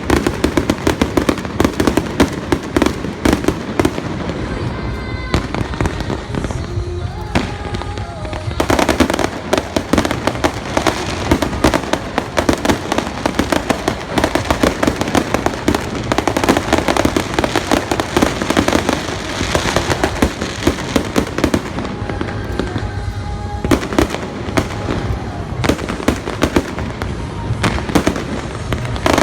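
Fireworks display: a dense, continuous barrage of rapid bangs and crackles, with music playing underneath.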